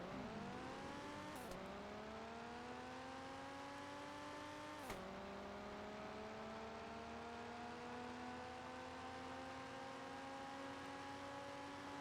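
A motor running with a steady whine that climbs slowly in pitch, dipping briefly about a second and a half in and again at a sharp click about five seconds in before climbing back.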